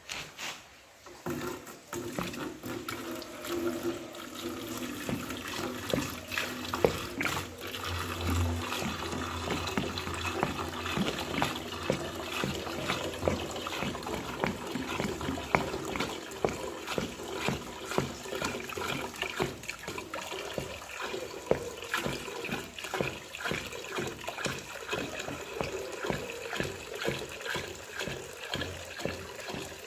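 Water running and splashing steadily, with many small irregular drips and splashes.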